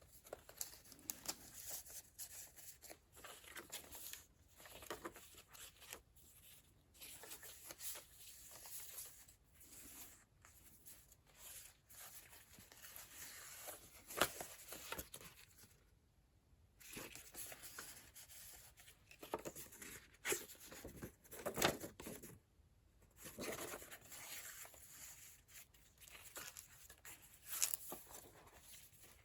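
Pages of a handmade junk journal being turned: irregular paper rustling and crinkling from thick layered papers and ephemera, with a few sharper snaps.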